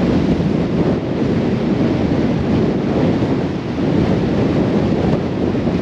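Storm-force wind blowing hard across the microphone: a loud, steady low rush that flutters with the gusts.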